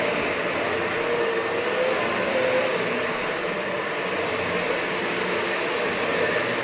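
Vacuum cleaner running steadily, a constant whooshing motor noise with a faint wavering hum.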